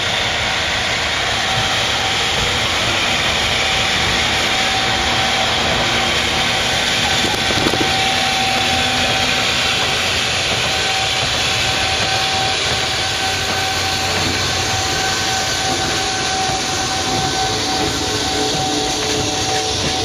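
Freight train running past: a steady, loud rumble and hiss of the moving train, with a steady whine held through most of it.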